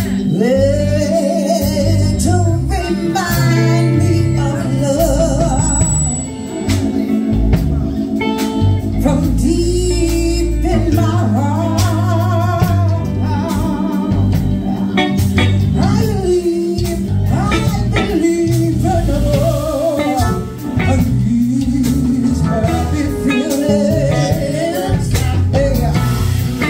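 A singer performing live over amplified band music with a strong bass line and guitar, the voice wavering with vibrato on held notes.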